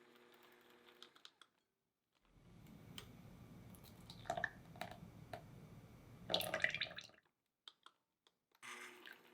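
A utensil working a soft, creamy mixture in a bowl: wet squishing with light clicks against the bowl, loudest about six and a half seconds in.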